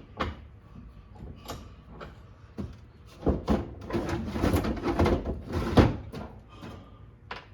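Irregular knocking and clattering of hard parts and tools being handled, busiest and loudest from about three to six seconds in.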